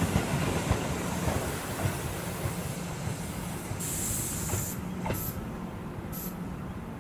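Tobu Isesaki Line electric train running on the rails, its rumble and steady hum fading. A brief hiss of air comes about four seconds in, then two short hisses.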